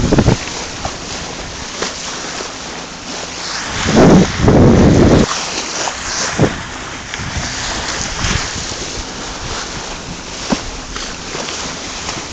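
Wind buffeting the microphone over the steady rush of sea water along a sailing yacht's hull, with a louder gust about four seconds in.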